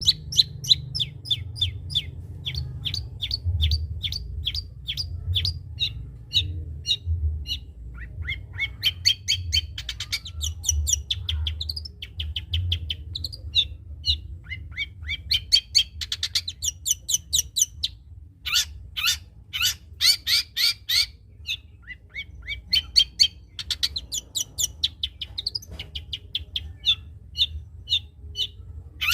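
Long-tailed shrike (cendet) singing vigorously: long runs of sharp, rapid chips and quick phrases, mimicking the song of the kapas tembak.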